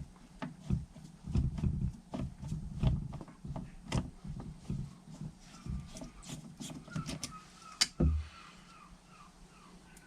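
Hands fitting small clamped pipes onto a motorcycle carburettor bank: irregular light clicks and knocks of small plastic and metal parts, with one louder knock about eight seconds in.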